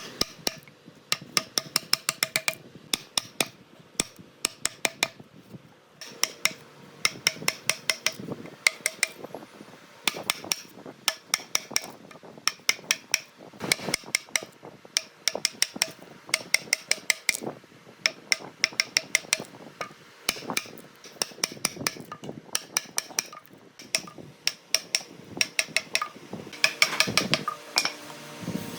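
Repeated sharp hammer strikes in quick runs of several blows a second, broken by short pauses, each blow ringing briefly.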